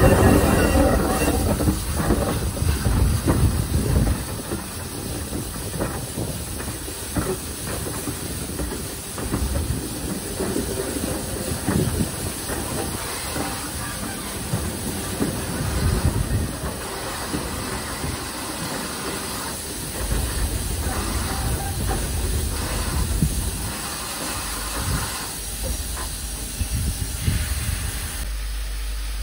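Pannier tank steam locomotive hissing steam, with scattered irregular clanks. A wheel squeal fades out within the first second or two.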